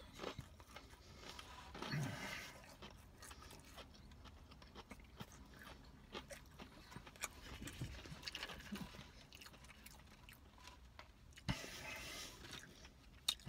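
Faint chewing and crunching of crispy fried chicken tenders, with small mouth clicks throughout and a short louder rustle and a couple of sharp clicks near the end.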